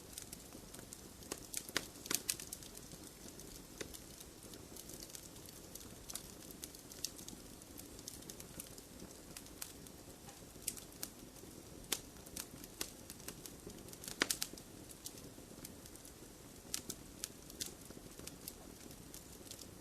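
Wood fire in a fireplace crackling: irregular sharp pops and snaps over a soft steady rush of flame, with a quick cluster of louder pops about two seconds in and again near fourteen seconds.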